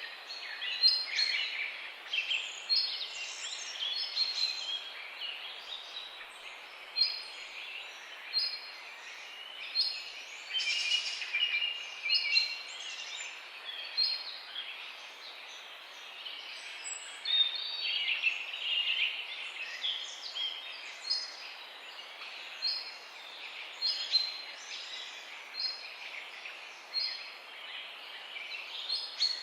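Several songbirds singing together, with varied phrases and a short high note repeating about every second and a half, over a faint steady background hiss.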